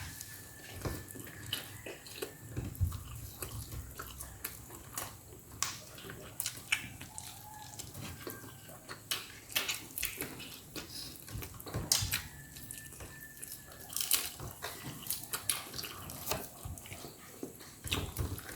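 Close-up eating sounds of a person chewing and smacking on roast chicken: irregular moist clicks and smacks, several a second.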